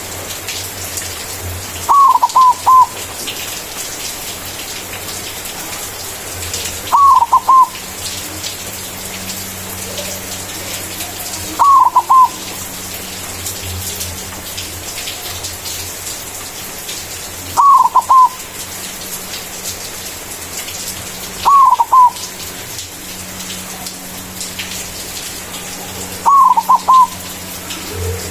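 White zebra dove (perkutut) cooing its song: six short phrases of two or three quick notes each, several seconds apart, over a steady hiss and low hum.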